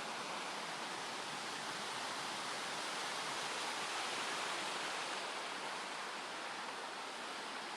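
Steady rushing of water in a mountain stream, a constant hiss that swells a little midway.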